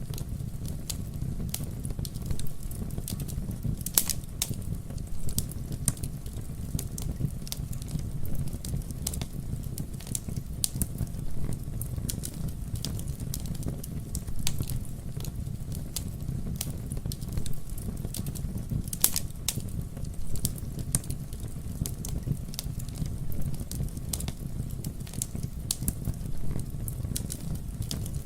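Wood fire burning, with a steady low rumble of flames and constant irregular crackling, with a few louder pops now and then.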